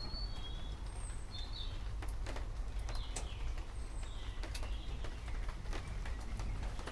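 Small birds chirping in short, high calls, a few at a time, over a steady low rumble, with scattered sharp ticks like drips.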